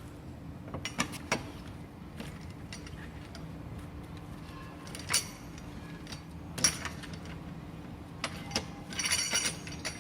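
Metal tools clinking and clicking against the wheel bolts as a car wheel is taken off, with single clinks spread out and a quick run of clinks near the end, over a steady low hum.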